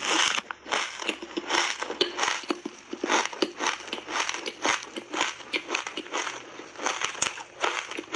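Ice coated in matcha tea powder being bitten and chewed: a quick, uneven run of sharp crunches, several a second.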